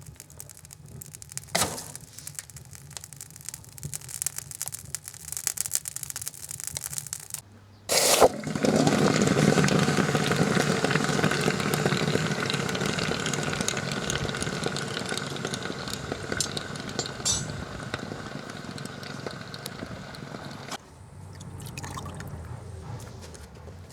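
Fire crackling and rushing in a stove where copper motor windings from a water pump are being burned to strip their insulation. A loud rush of flame starts about eight seconds in and slowly dies down, with scattered crackles before it.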